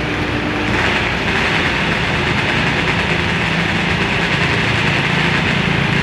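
Modified multi-engine garden pulling tractor running, a steady engine sound that gets louder and harsher about a second in and then holds.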